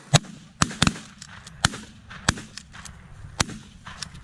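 A volley of shotgun fire at geese: about six loud, sharp shots at uneven gaps over three and a half seconds, with fainter shots between them, as several hunters fire at once.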